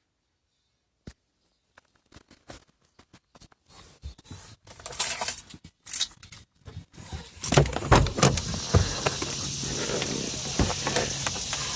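Clicks and rattles of something being handled close to the microphone, sparse at first and growing busier and louder. A steady hiss sets in about two-thirds of the way through.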